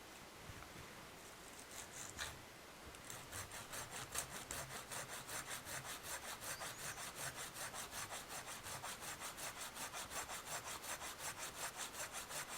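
Hand saw cutting into the trunk of a standing dead, dry birch: a few starting strokes, then faint, steady back-and-forth sawing at about four to five strokes a second from about three seconds in.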